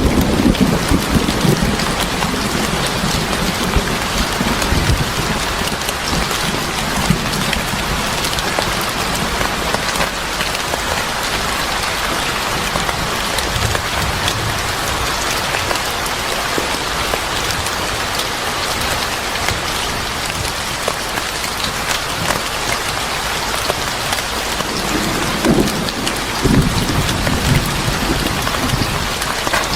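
Steady heavy rain falling on a surface, with low rolls of thunder that fade out just after the start and return about 25 seconds in.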